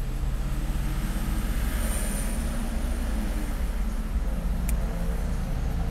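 Steady low rumble of a car engine idling, heard from inside the cabin, with a faint high whine that swells and fades about two seconds in.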